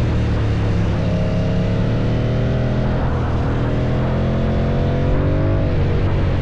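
KTM 790 Duke's parallel-twin engine running through an Akrapovic exhaust, its pitch climbing slowly and steadily, then falling away near the end.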